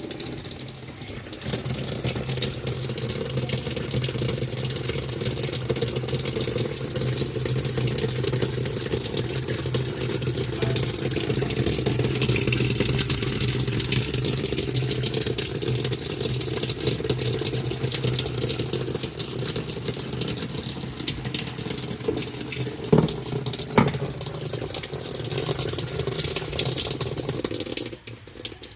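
Toy washing machine running with water in it: a steady hum of its small motor under continuous water sloshing and splashing. Two short knocks come near the end, and the sound stops suddenly just before the end.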